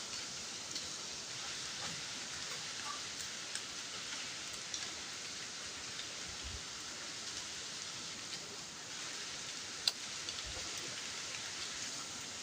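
Steady hiss of leaves rustling in a strong wind, with scattered faint ticks and one sharp click about ten seconds in.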